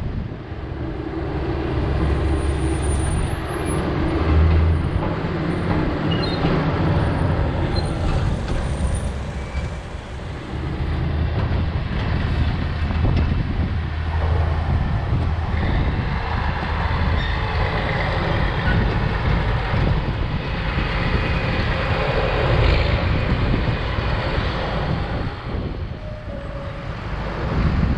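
Heavy diesel machinery at a corn silage pile: the engines of tractors and snowcats running steadily, their level dipping and rising again a couple of times.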